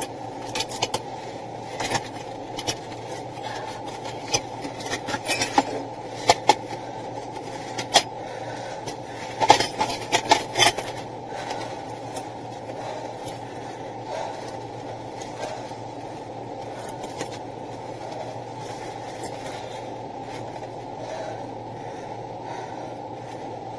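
Steady low hum of a vehicle, with scattered clicks and knocks that come thickest a quarter to halfway through.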